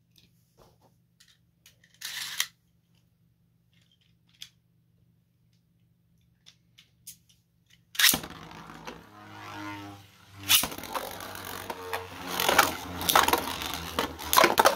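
Small clicks of handling and one short rasp, then about eight seconds in two 3D-printed Beyblades are launched into the stadium and spin against each other, a steady whir broken by several sharp clashes as they collide.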